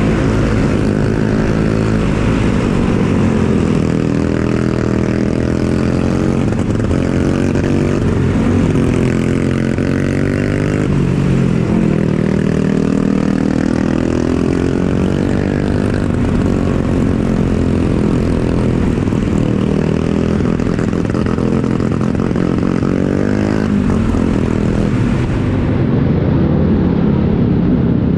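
Bajaj Pulsar NS200 motorcycle's single-cylinder engine running under way, its note rising and falling again and again with throttle and gear changes.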